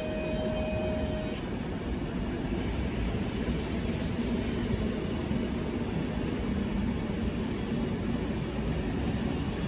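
Electric passenger trains moving through a station: a steady rumble of wheels on rails with a faint low hum.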